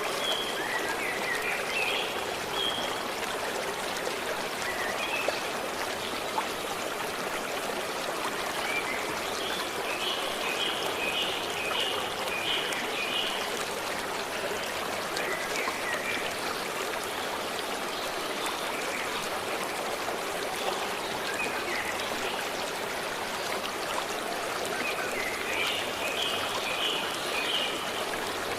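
A forest stream flowing steadily. Over it a small bird calls in short phrases of quick, high-pitched repeated notes every few seconds.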